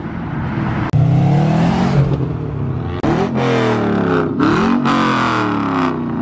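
Car engine revving hard, the revs jumping up suddenly about a second in and then climbing and falling again several times in quick succession.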